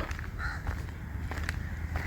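Outdoor rural ambience with a steady low rumble, a short bird call about half a second in, and a few light clicks.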